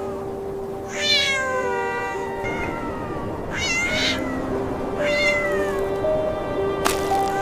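A cat meowing three times in high cries that fall in pitch, over background music with long held notes. A sharp click sounds near the end.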